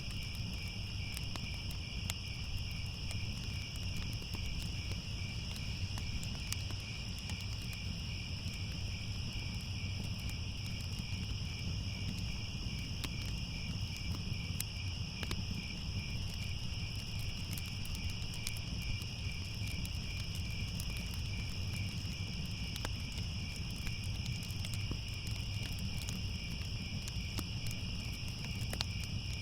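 Crickets chirping in a continuous, evenly pulsing chorus, over a low steady rumble with scattered light crackles of a fire.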